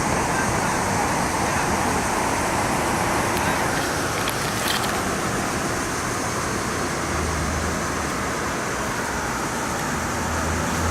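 Heavy rain from a severe thunderstorm falling steadily, an even hiss. A low hum joins briefly partway through and again near the end.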